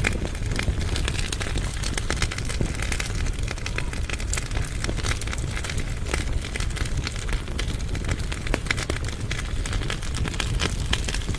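Wood fire burning in a fireplace firebox: many irregular crackles and pops over a steady low rumble from the flames.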